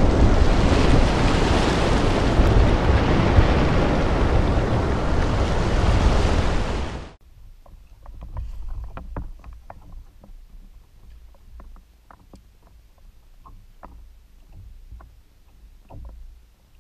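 Loud, steady rain-and-thunder storm noise cuts off abruptly about seven seconds in. After that comes a much quieter bed of wind and water lapping against a kayak, with scattered small ticks.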